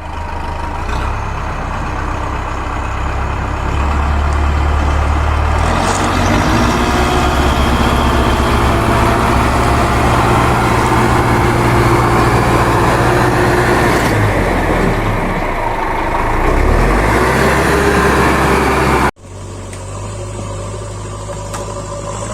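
A heavy vehicle's engine running steadily and loudly, with a deep, even rumble. About nineteen seconds in the sound breaks off abruptly, then carries on a little quieter.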